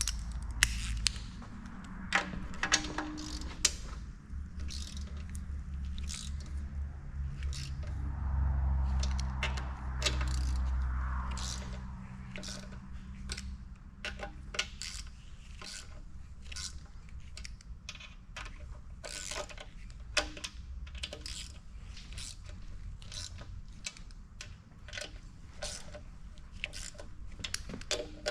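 Light metallic clicks and taps, irregular and about one or two a second, from bolts and hand tools being handled on an engine block during reassembly. A low hum runs underneath for the first dozen seconds, then fades.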